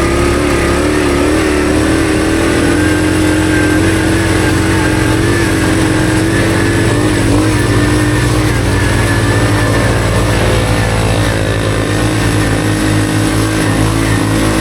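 Honda CT110 postie bike's small single-cylinder four-stroke engine running steadily while being ridden, its pitch wavering slightly.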